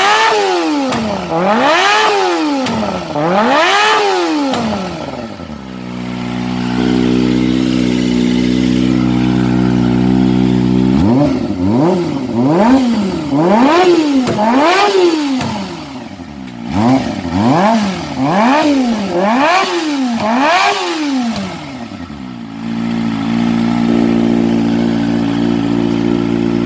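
Kawasaki ZX25R's inline-four engine, breathing through an aftermarket exhaust with the catalytic converter removed, revved in quick throttle blips: three, a short spell of idle, then a run of about eight more, settling back to idle near the end.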